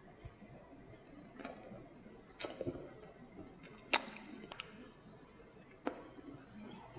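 Close-miked chewing of a soft chocolate brownie: quiet, moist mouth sounds with scattered wet clicks and smacks, the sharpest about four seconds in.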